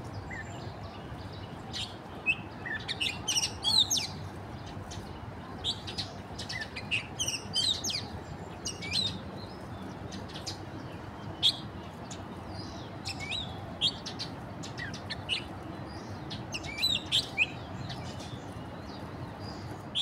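Small birds chirping: many short, high, quick calls in clusters, over a steady low background rush.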